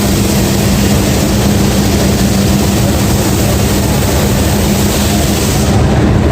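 Loud, steady machine rumble with a constant low hum, from a train's engine running at the station platform. The high hiss drops away near the end.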